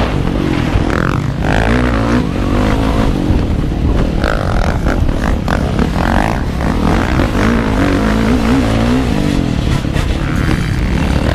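Motocross bike engine heard on board, its pitch rising and falling as the throttle is worked over the track, over a heavy low rumble.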